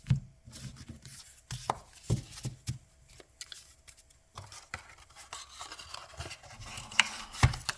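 Tarot and oracle cards and their deck box being handled on a table: a series of taps and knocks as the cards are stacked, then rustling and sliding with two sharp clicks near the end.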